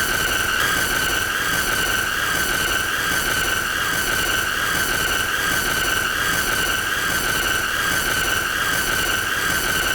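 A continuous, high-pitched squealing tone with a slight regular wobble in pitch, over a steady hiss, held without a break.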